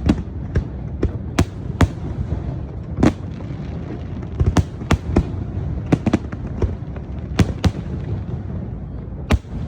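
Fireworks display: a quick, irregular string of sharp bangs and crackles, a dozen or more, over a steady low rumble of further bursts.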